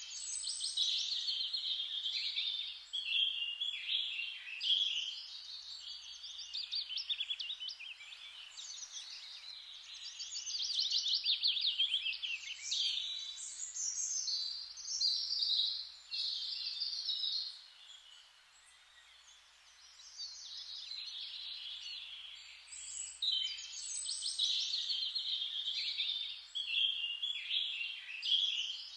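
Songbirds singing: overlapping high chirps and rapid trills in phrases of a few seconds, with a quieter lull about two-thirds of the way through.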